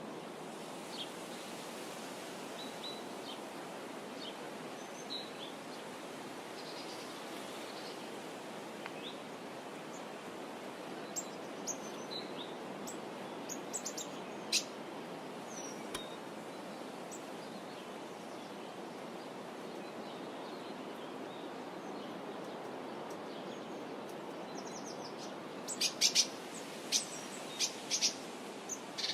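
Wild birds chirping now and then over a steady background hiss, with a quick run of louder, sharp chirps near the end.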